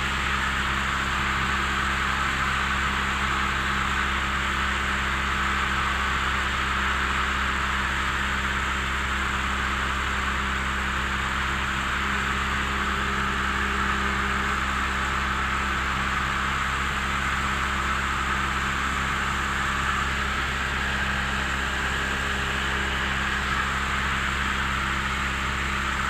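Cessna 172M's four-cylinder Lycoming O-320 engine and propeller running steadily in cruise, a constant drone with a hiss of airflow over it, heard inside the cockpit.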